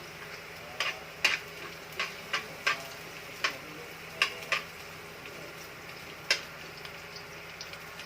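Garlic, ginger and onion sizzling in hot oil in a pan, stirred with a utensil that knocks against the pan about nine times in the first six and a half seconds over a steady frying hiss.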